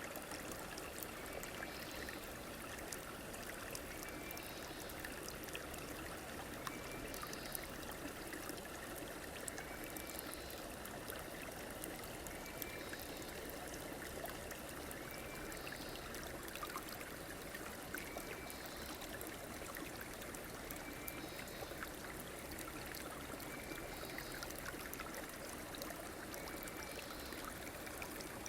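River water flowing and trickling steadily, with a faint short high call repeating about every two seconds.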